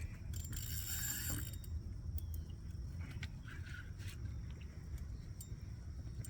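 Fishing reel being cranked as a hooked jack is fought, with faint mechanical clicking over a low steady rumble.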